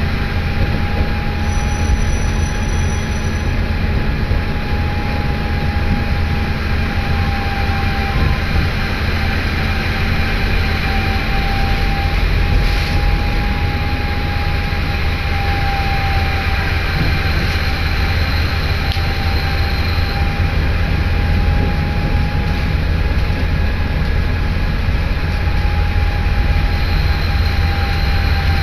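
Diesel passenger train running at speed, heard from inside the car: a steady low rumble of the wheels and engine, with a thin, slightly wavering whine over it.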